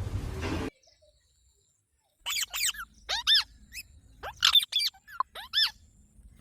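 A green parrot giving a string of short, shrill squawks in quick groups of two or three, about eight calls in all. A burst of rustling noise before them cuts off suddenly under a second in.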